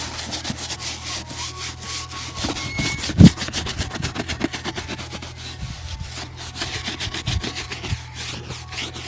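Rapid rubbing strokes of a shoe shine, worked quickly back and forth over the shoe, with one loud knock about three seconds in.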